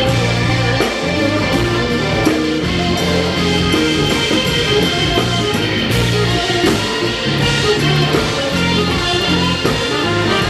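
A live band playing a song, with a bass line and drum kit keeping a steady beat under sustained guitar and other instrument notes.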